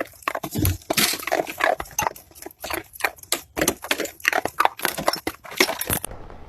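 A dog making a rapid, irregular series of short, noisy sounds, several a second.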